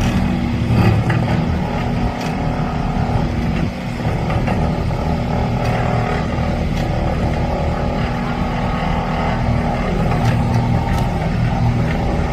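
Doosan DX350LC-7 excavator working with a pile driver attachment: a steady, loud machine drone with a few faint clicks.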